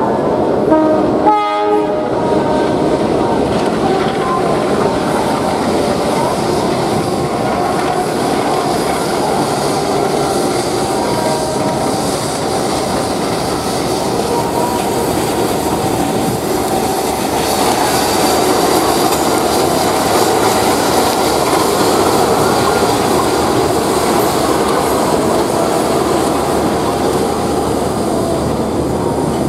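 Indonesian passenger train hauled by a CC201 diesel-electric locomotive passing at speed. Its horn sounds in the first couple of seconds, then the steady noise of the locomotive and coaches running past on the rails.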